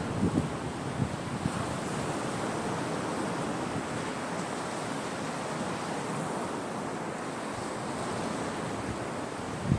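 Sea waves washing steadily onto the shore, with wind on the microphone and a few soft low thumps in the first second and a half.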